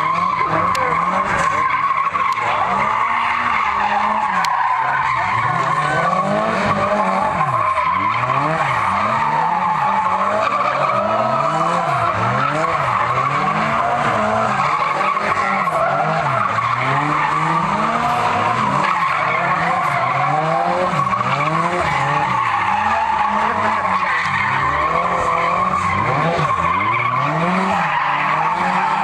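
Two Nissan 240SX drift cars running in tandem: their engines rev up and down again and again, with steady tyre squeal and screech from the sliding tyres throughout.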